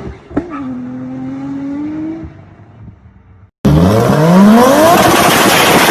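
A car exhaust gives a single sharp pop, and the engine note settles and fades away. After a brief silence, a car engine is suddenly loud, revving hard with its pitch climbing steeply, amid a loud rushing noise.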